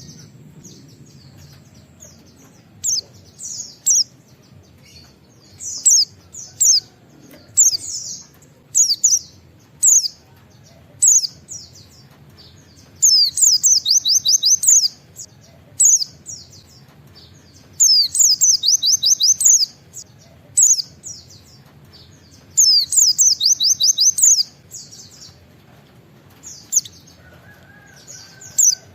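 A pleci (white-eye) singing: short high chirps every second or so, broken three times by a rapid run of about ten quick repeated notes lasting about two seconds, the 'nembak' volley sought in a gacor, fully singing bird.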